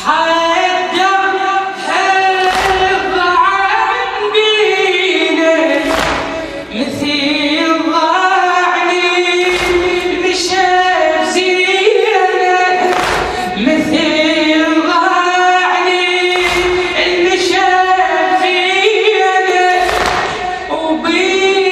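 A chorus of voices chanting a Shia latmiya a cappella, holding long melodic lines, with a heavy thump about every three and a half seconds marking the beat.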